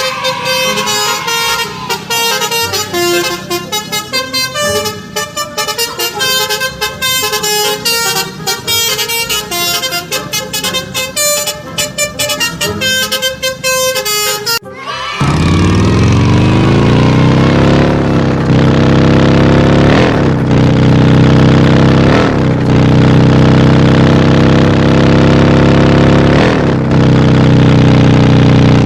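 Electronic toy-vehicle sound effects: a quick jingle of short beeping notes and clicks, then, about halfway through, an abrupt switch to a loud steady horn-like drone that dips in pitch about every two seconds.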